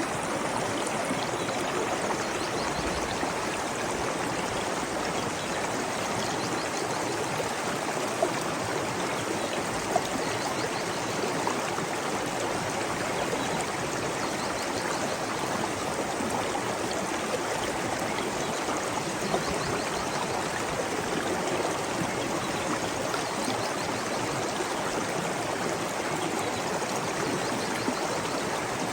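Water of a small waterfall or stream rushing and splashing in a steady, even flow, with a few louder splashes.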